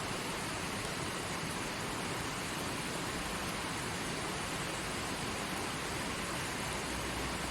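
Forest stream flowing, a steady even rush of running water with no changes.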